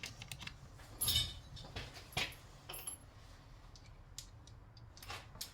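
Hand tools and small metal terminal hardware clinking and tapping: about half a dozen short, light clicks spread unevenly, the loudest about a second in and a little after two seconds.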